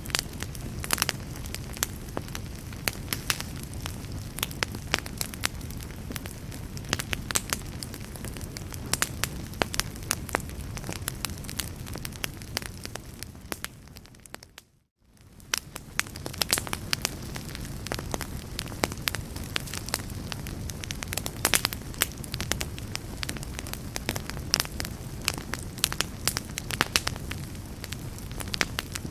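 Wood fire crackling in a fireplace: a steady low rumble and hiss with frequent sharp pops and snaps. About halfway through it fades briefly to near silence and then comes back.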